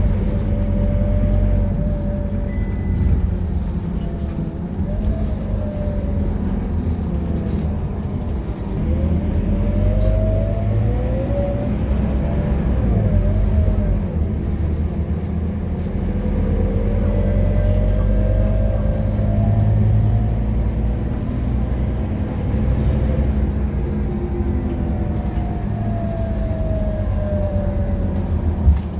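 Scania K230UB bus's five-cylinder 9-litre diesel and automatic gearbox heard onboard, pulling hard: a steady low rumble with a whine that rises several times as the bus accelerates through the gears and falls again as it eases off. A short knock near the end.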